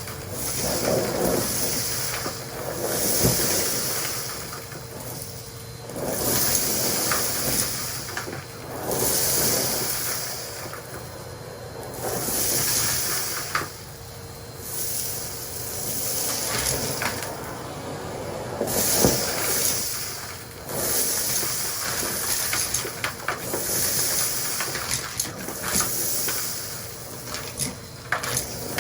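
Henry canister vacuum running while its floor tool sucks up crunchy debris in repeated strokes: a hiss of air that swells and fades every two to three seconds, with crackles and rattles of bits going up the hose.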